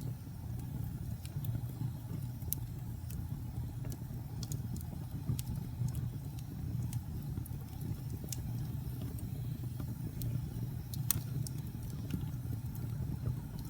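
Wood fire crackling in a fireplace: a steady low rumble of burning with irregular sharp pops and snaps, one louder pop about eleven seconds in.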